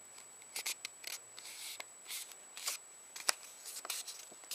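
Square sheet of origami paper being folded and creased by hand: a string of short, crisp rustles, with a sharper crackle a little past three seconds in.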